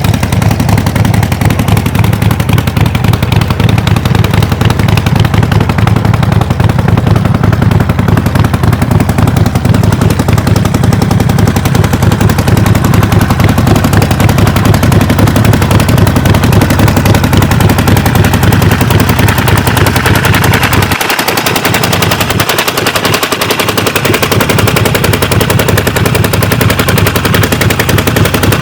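Harley-Davidson XL 1200 Nightster's air-cooled V-twin engine running loud and close, with rapid, even firing pulses. About three quarters of the way through, the deep low rumble drops away for a few seconds, then returns.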